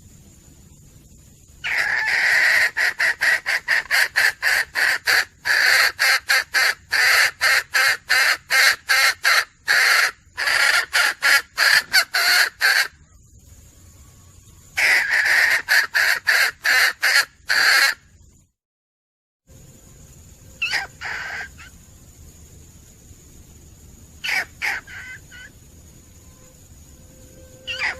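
Junglefowl hen calling in two long runs of sharp, rapidly repeated cackling notes, about four a second, followed by a few single short calls. The sound cuts out completely for about a second in the middle.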